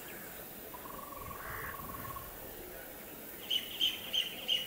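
Bird calls: a quick run of about five sharp, high calls near the end, the loudest sound here. Before them comes a thin, steady trill, over a faint open-air background.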